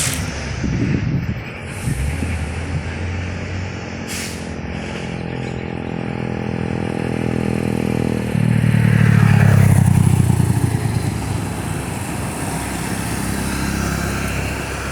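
Diesel truck engines labouring slowly uphill in a low gear, with a short hiss near the start and another about four seconds in. A truck engine grows louder about eight seconds in, then eases back.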